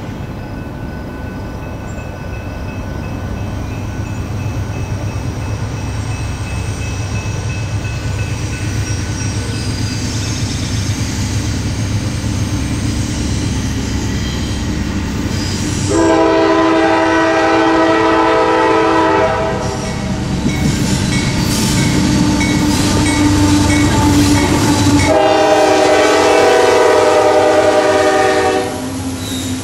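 Norfolk Southern diesel freight train approaching and passing: the locomotive engines rumble, growing louder, then the lead locomotive's air horn sounds a chord of several notes in two long blasts, about halfway through and near the end, as the cars clack over the rails.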